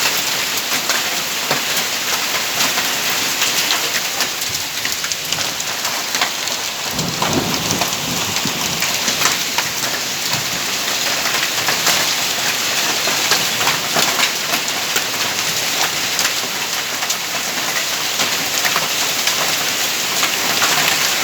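Hailstorm: hailstones and heavy rain pelting down, a dense steady hiss full of sharp ticking impacts. A low rumble of thunder comes in about seven seconds in.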